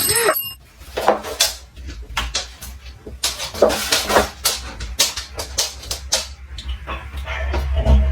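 A dog, with irregular clattering knocks and a few short pitched sounds.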